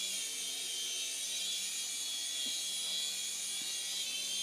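Toy remote-control police helicopter's small electric motor and rotors whirring in flight: a steady high whine that wavers slightly in pitch as it is steered.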